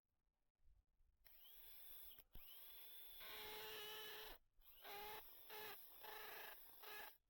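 Power drill turning a long dirt auger bit to bore under a sidewalk, run in trigger pulls: a whine that rises at each start, one run of about two seconds, then several shorter bursts.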